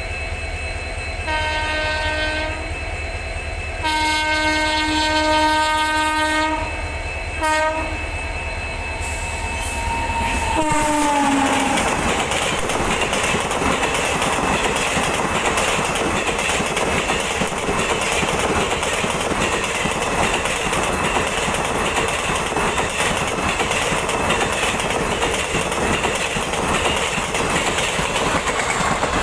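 WAG-9Hc electric locomotive's air horn sounding three times on the approach: a short blast, a long one and a brief toot. About ten seconds in, the locomotive passes and its tone drops in pitch. After that comes the steady loud rush of an express's coaches running through at speed, wheels on rails.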